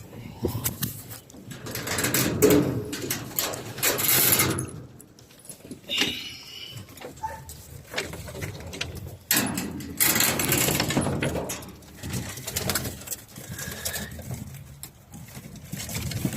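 Racing pigeons cooing in a loft, among irregular rustling and knocking.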